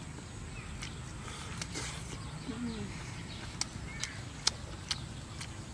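Someone chewing roasted duck meat, with a few sharp mouth clicks and smacks in the second half. A dove coos faintly once, a short falling low note, in the background.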